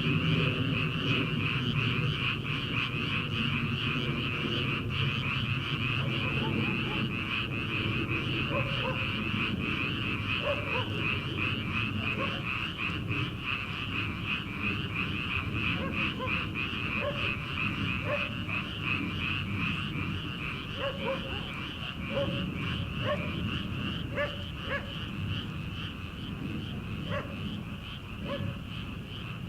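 A dense chorus of frogs calling in a flooded rice paddy: a continuous high, rapidly pulsing trill layered over lower croaking, with short separate calls popping out here and there after the first several seconds.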